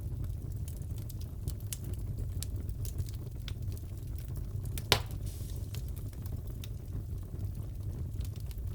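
Wood fire crackling in a fireplace: a steady low rumble with scattered small pops, and one sharper pop about five seconds in.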